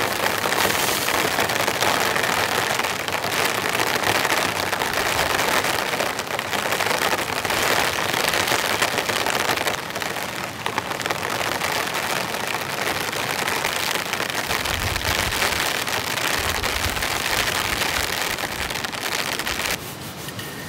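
Heavy rain falling steadily on a tent, a dense loud hiss of many drops. A low rumble joins in for a couple of seconds past the middle, and near the end the rain sound drops suddenly to a quieter level.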